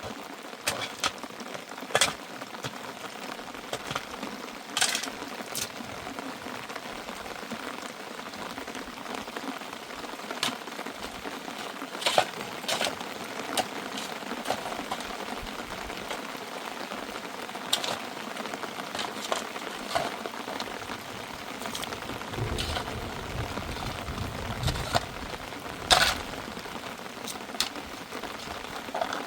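Steady rain with scattered sharp taps of drops striking a surface, and a low rumble for a few seconds about two-thirds of the way in.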